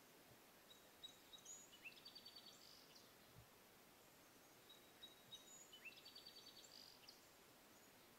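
A songbird sings the same short, high-pitched song twice, about four seconds apart. Each song lasts about two seconds and includes a fast trill. It is faint over a quiet outdoor background hiss.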